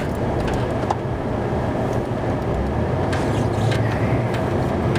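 Snow plow truck's engine running steadily under load, heard from inside the cab, as the blade pushes heavy, clumpy wet snow.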